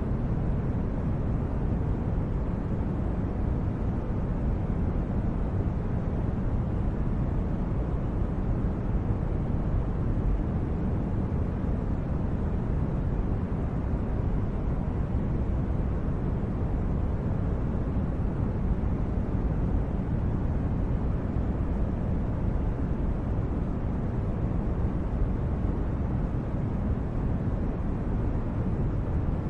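Steady low rushing noise, even and unchanging throughout, with nothing else in it: a background noise bed of the brown-noise kind used under sleep recordings.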